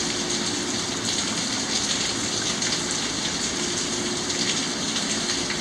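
Steady rain falling, an even hiss with no thunder claps.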